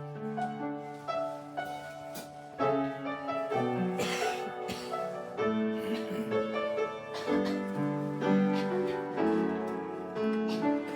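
Piano playing a slow chordal introduction to a worship song, with a brief cymbal swell about four seconds in.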